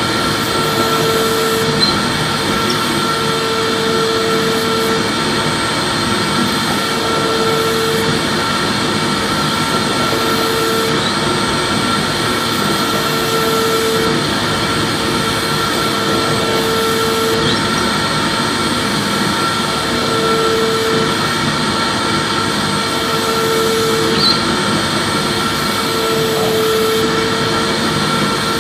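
Vacuum cleaner running steadily: an even whoosh of airflow over a constant motor whine, with a lower hum that comes and goes every second or two.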